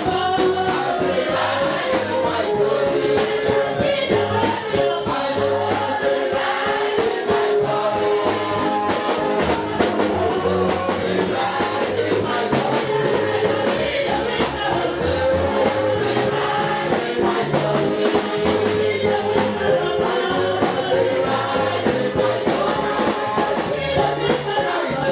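Gospel choir singing with a live band: sung voices over a walking bass line and a steady percussive beat.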